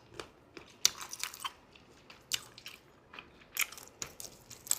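Someone chewing roasted dried shrimp close to the microphone: an irregular string of short, crisp crunches.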